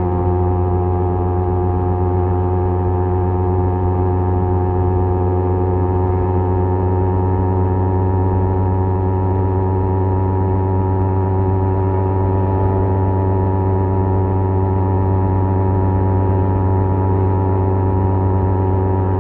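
Kawasaki Z250 parallel-twin engine with an aftermarket SeaPro muffler running at a steady, constant rpm while cruising, a deep even exhaust drone that holds the same pitch throughout.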